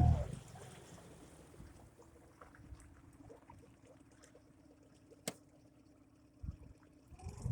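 Faint water trickling and small ticks of ice around a small boat pushed into ice, over a faint steady hum, with one sharp click about five seconds in and a low thump shortly after.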